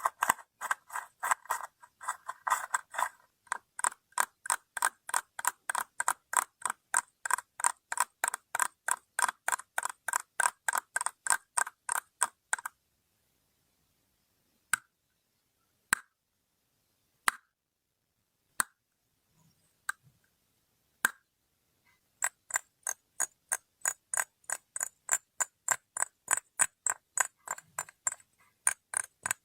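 Crisp, evenly spaced taps or clicks on a hard object, about three a second. They stop about 13 s in, come back as a few single clicks about a second apart, then pick up again as a steady, slightly faster run about 22 s in.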